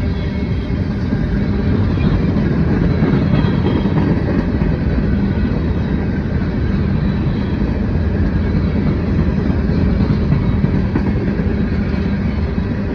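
A Norfolk Southern freight train running past: a loud, steady rumble with a low, even hum through it.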